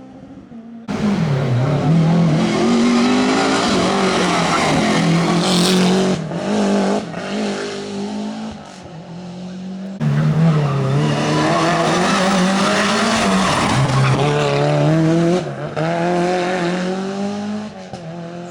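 Rally car engines revving hard, pitch rising and falling through throttle blips and gear changes, with tyres skidding. The sound cuts in abruptly about a second in and changes suddenly again about halfway, as between separate passes.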